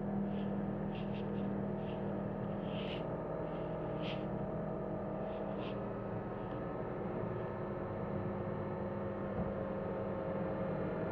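John Deere 325G compact track loader's diesel engine running steadily, a constant drone with a strong low tone. Short high-pitched chirps or squeaks come and go over the first six seconds.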